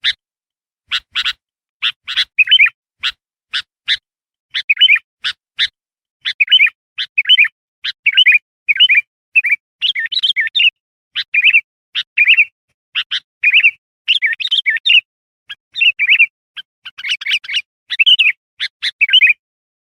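Kutilang (sooty-headed bulbul) calling: short sharp chirps at first, then quick bubbling warbled phrases repeated about once or twice a second, each cut off by dead silence, as in a looped bird-lure recording.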